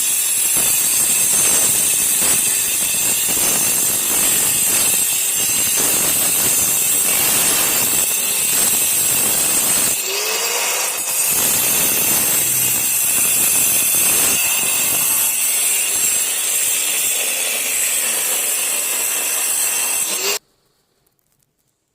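Power wall-cutting tool running with a steady high whine over grinding noise, its blade cutting a channel into a wall for pipework. It stops abruptly near the end.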